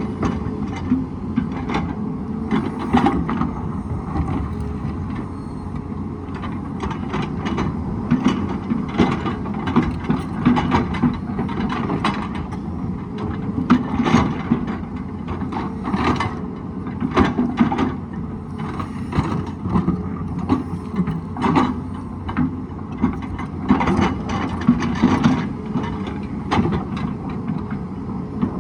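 Hydraulic excavator running steadily under load, with frequent sharp knocks and clatter from the bucket working against rock.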